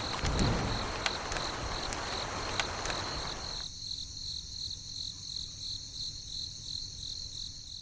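Cricket chirping in a steady pulsing trill, with a rushing hiss under it that cuts off suddenly about halfway through.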